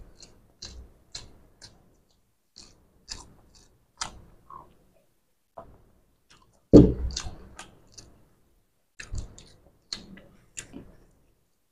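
Mouth sounds of a man eating whole boiled eggs fast: scattered wet clicks and smacks of chewing, with a louder thump about seven seconds in.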